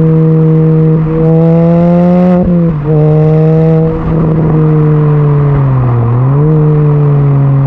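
Mini Cooper S R53's supercharged 1.6-litre four-cylinder engine heard through a stainless cat-back exhaust, running with a loud, steady drone. The pitch climbs slightly, breaks off briefly twice, once before the middle and once near it, and dips then picks back up about six seconds in.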